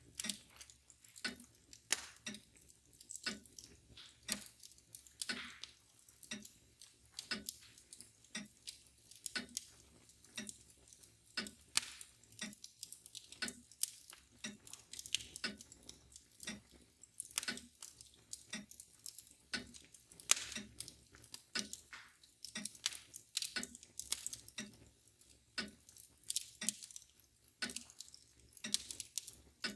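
Wood fire crackling and popping irregularly, with a mantel clock ticking steadily underneath at about two ticks a second.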